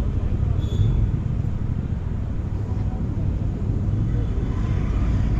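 Triumph Street Triple RS three-cylinder motorcycle running on the road, heard as a steady low rumble mixed with wind noise.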